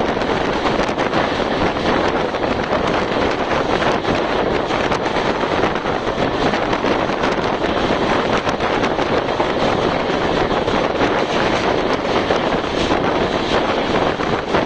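Steady rushing noise of a superfast express train running at speed, with wind blowing across the microphone at the window.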